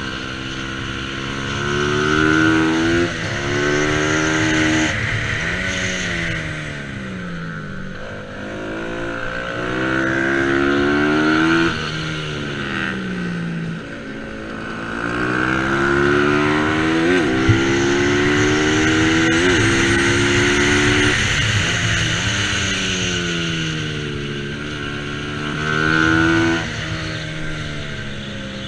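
Racing motorcycle engine, a Bajaj Pulsar 200 NS single-cylinder, run hard. Its pitch climbs through the gears with abrupt breaks at each upshift, then falls away under braking into the corners, several times over.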